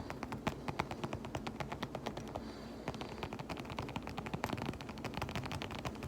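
Fast tapping on a fabric-covered pouch, many crisp taps a second, easing briefly about two and a half seconds in.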